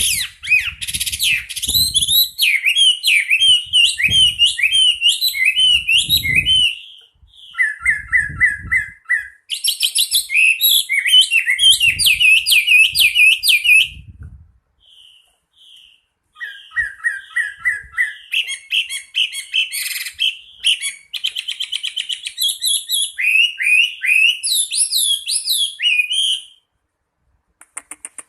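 Chinese hwamei singing a loud, varied song of quick rising and falling whistled notes mixed with runs of rapidly repeated notes, delivered in long bursts separated by short pauses.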